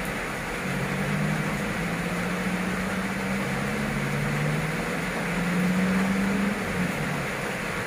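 Heavy rain pouring steadily, with a passing vehicle's engine hum coming up about a second in and fading out near the end.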